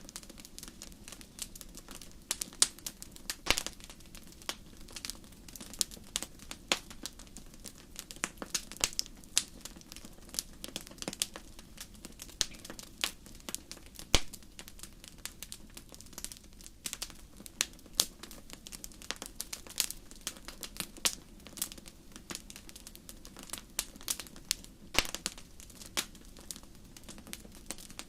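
Wood fire burning in a fireplace, crackling with many irregular sharp pops over a low steady hiss.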